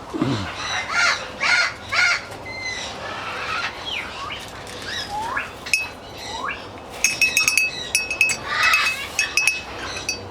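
Parrots calling: three short arched squawks, then several gliding whistled calls that slide up and down in pitch. Later comes a quick run of sharp metallic clinks with a ringing tone.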